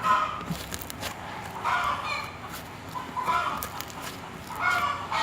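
A chicken clucking: four short pitched calls about every one and a half seconds.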